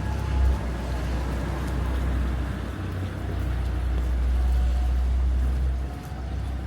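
City street traffic: a steady low rumble of passing vehicles, easing a little near the end.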